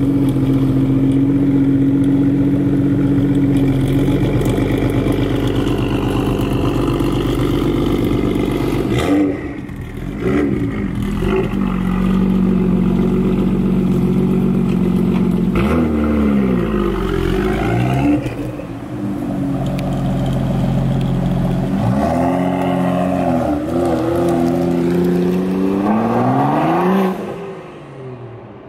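BMW M235i's turbocharged straight-six running through an AWE Tuning aftermarket exhaust. It holds a steady note at first, then is revved several times, each rev climbing and falling back, before it quietens near the end.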